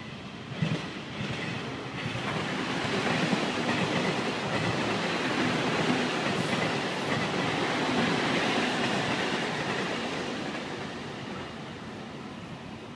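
A train running on the rails, its wheels clattering over the track, with a sharp clack about half a second in; the sound builds over a couple of seconds, holds, then fades away.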